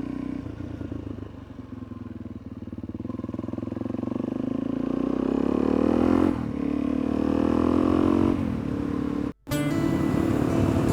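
Suzuki DR-Z400E's single-cylinder four-stroke engine pulling up through the gears on the move: the pitch climbs for several seconds, drops at a gear change, climbs again and drops at the next shift. Near the end the sound cuts out for a moment, then the engine runs on steadily.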